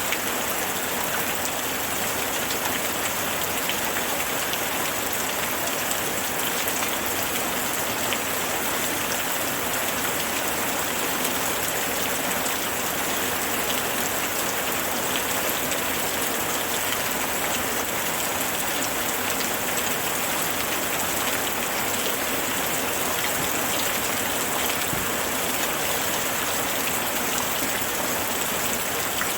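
Steady rain falling, an even hiss of many small drops on a surface with no breaks or changes.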